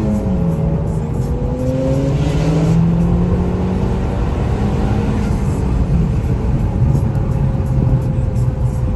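Car engine running while driving, its pitch rising as the car accelerates and dropping sharply just after the start and again around six seconds in, as at gear changes.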